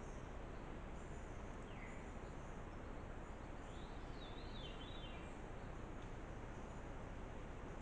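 Faint outdoor ambience: a steady hiss with a small bird calling twice, a short falling note about two seconds in and a longer up-and-down warbling phrase around four to five seconds in.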